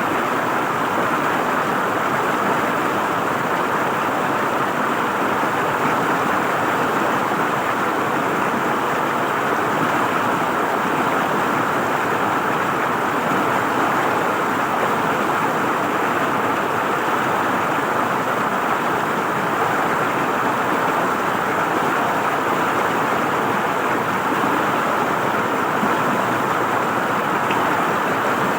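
River water flowing and gurgling, a steady, unbroken rush.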